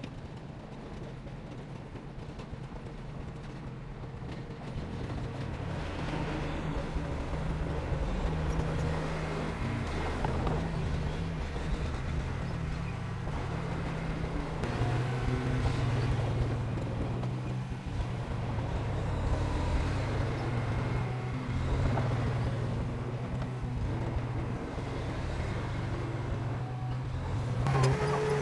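Diesel engine of heavy construction equipment running, a steady low drone that grows louder from about five seconds in.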